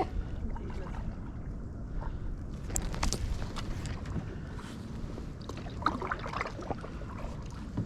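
Kayak paddling: paddle blades dipping and water splashing and dripping in scattered patches, over a steady low wind rumble on the microphone.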